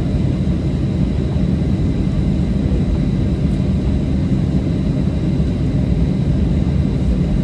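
Steady low rumble of a Boeing 737-700's cabin while it taxis after landing, its CFM56-7 engines at idle, with a faint thin high whine.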